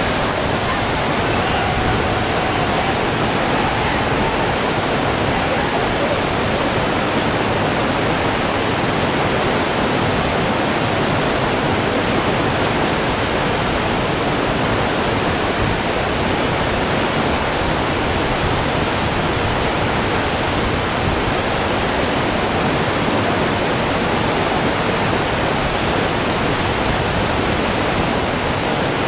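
Whitewater of a large two-step river rapid, rushing steadily and loudly.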